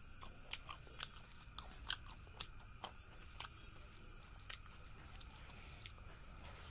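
Close-miked chewing of a mouthful of rice: wet mouth smacks and clicks, about two a second at first, then fewer.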